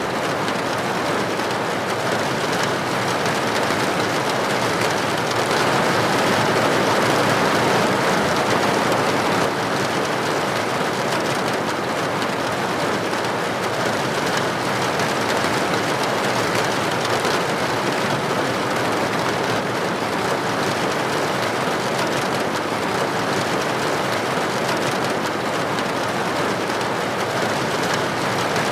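Steady rain falling, an even rushing hiss with no breaks, swelling a little about six seconds in and easing back a few seconds later.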